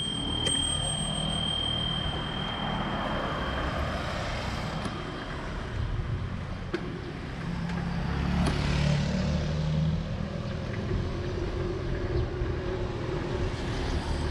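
Wind and road noise while riding a bicycle, a steady low rumble, with the ring of a bicycle bell fading out over the first few seconds. A motor vehicle's engine hum swells and passes about eight seconds in.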